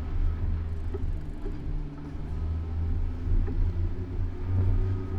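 Low, steady rumble of road traffic with a faint engine hum.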